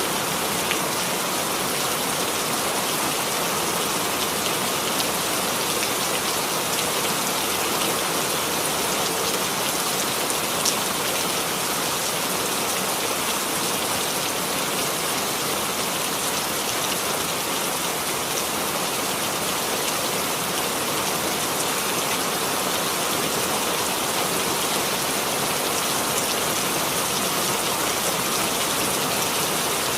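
Steady rainfall, with a few faint sharp drop ticks standing out here and there.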